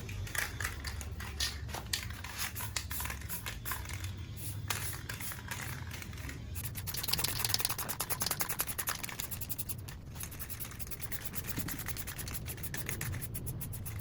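Hand sanding: rapid back-and-forth rubbing strokes of abrasive on a surface, a little more intense around the middle.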